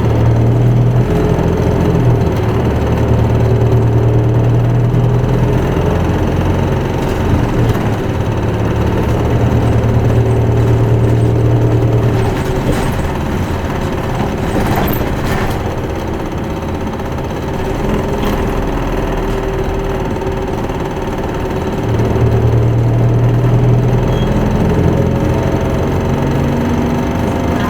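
Isuzu Erga Mio bus's four-cylinder diesel engine heard from inside the cabin as the bus drives. The engine pulls strongly, eases off for a stretch in the middle with a few light rattles, then pulls hard again near the end.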